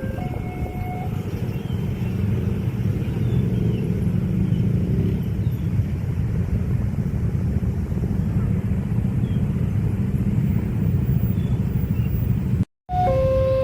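Train passing over a level crossing: a loud, steady rumble of wheels on the rails. The crossing's two-tone electronic warning alarm sounds briefly at the start, and the sound cuts off suddenly near the end.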